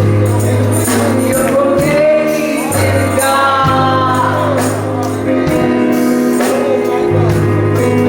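Gospel worship music: sustained organ or keyboard chords and bass with tambourine hits keeping the beat, and a voice singing a drawn-out line.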